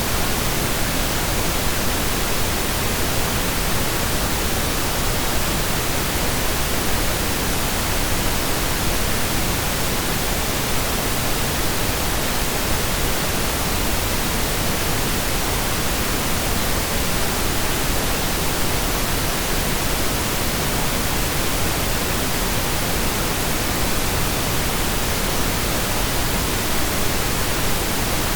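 Steady, unchanging pink noise: an even hiss spread across the whole audible range, digitally synthesized.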